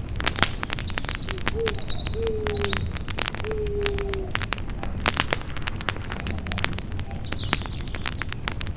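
Campfire crackling, with frequent sharp pops over a low rumble of burning wood. In the first half a bird gives three or four short, low cooing calls.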